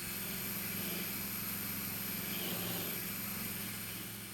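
Power sander running steadily on the cart's metal legs, a hum under a bright hiss, fading away near the end.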